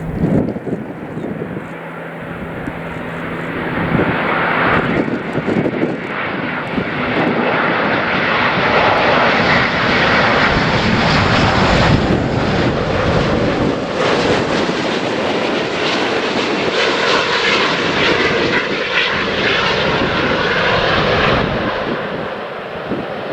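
Jet engines of an Airbus A350-900 airliner running as it passes close on landing. The noise builds from about four seconds in, holds at its loudest through the middle, and eases near the end.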